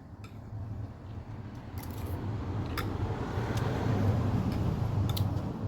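A motor vehicle running close by, its sound swelling over a couple of seconds and staying loud, with a few light sharp clicks over it.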